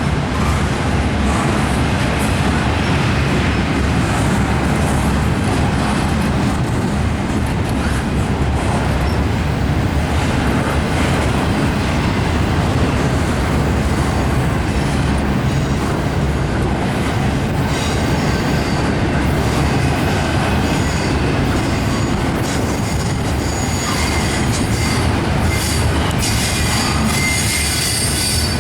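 Train rolling past: a steady, loud rumble of wheels on rail, with high-pitched wheel squeal joining in the last third.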